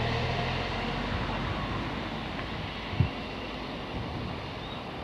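Class 377 Electrostar electric multiple unit running away along the line, its steady rumble slowly fading. A single low thump comes about three seconds in.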